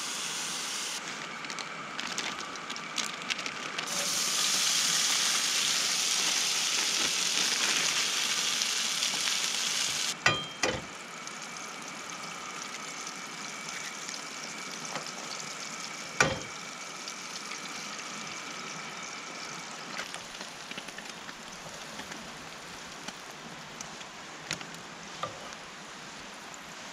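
Bacon and eggs sizzling in a frying pan on a two-burner camp stove. The sizzle is steady and loudest in the first ten seconds, with a few sharp knocks of a utensil or egg against the pan about ten and sixteen seconds in.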